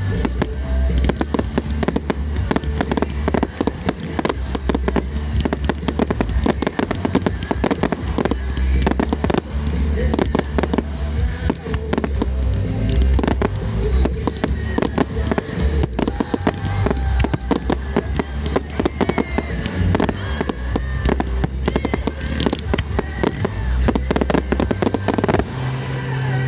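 Fireworks going off in rapid succession: many overlapping bangs and crackles over a deep booming rumble, with music playing underneath.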